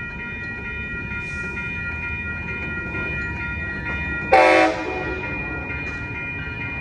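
Amtrak passenger train, led by a Siemens SC44 Charger locomotive, rolling slowly past with a low rumble, while several steady horn-like tones sound throughout. A brief, much louder honk comes a little past four seconds in.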